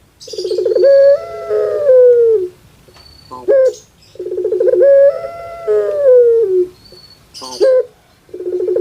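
Puter pelung (Barbary dove) cooing its long call about every four seconds: a short clipped note, then a long rolling, warbling coo that falls in pitch at the end. Two full calls, and a third begins near the end.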